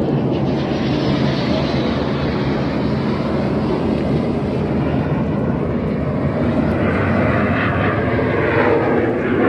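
An airplane flying past: a loud, steady engine roar whose pitch falls over the first few seconds, then builds again near the end as it comes round or another aircraft approaches.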